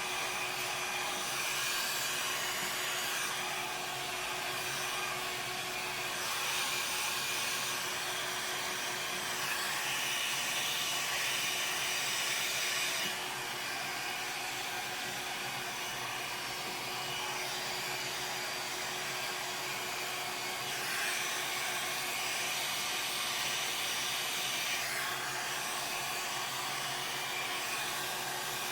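Hair dryer blowing steadily, pushing poured acrylic paint across the surface in a Dutch pour, its rushing sound shifting in tone a few times.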